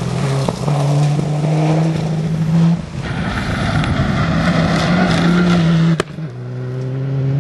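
Rally car engine running hard at a held pitch, the note jumping abruptly to a new pitch a few times, with a single sharp click about six seconds in.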